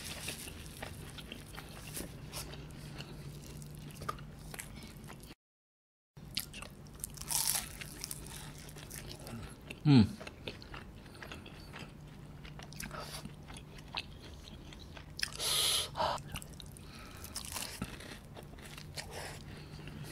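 Close-miked mukbang chewing and biting of puff-pastry beef Wellington, with crackly crunching of the flaky pastry. About halfway through comes the loudest sound, short and low and sliding down in pitch, and the audio drops out to dead silence for about a second near a quarter of the way in.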